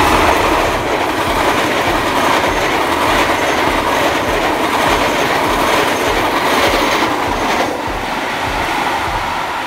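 Passenger train coaches running past close by, a loud, steady sound of steel wheels on the rails. It drops slightly about three-quarters of the way through.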